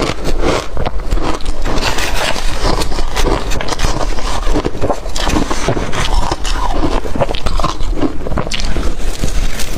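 Close-miked biting and crunching of blender-crushed ice: a dense run of crackly crunches in quick succession.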